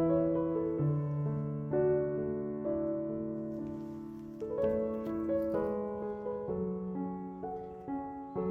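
Background piano music: slow, sustained notes and chords changing every second or so.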